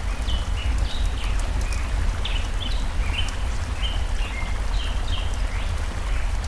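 Water from a stream running steadily, with birds repeatedly giving short chirps, each a quick falling sweep or a flat note, a couple of times a second. A fire crackles with sharp scattered clicks.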